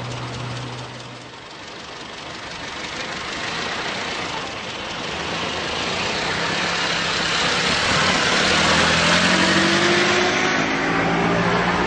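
A vintage open-top car's engine pulling away and driving past, getting louder as it comes closer. The engine note climbs a little near the end as it passes.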